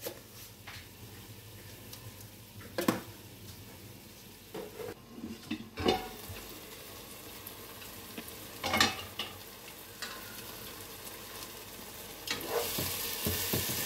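Tomato and onion masala frying in oil in a nonstick pot, a faint sizzle with a few separate knocks and clatters of a spoon and a steel lid on the pot. From about twelve seconds in the sizzle grows louder, with the clicks of a spoon stirring.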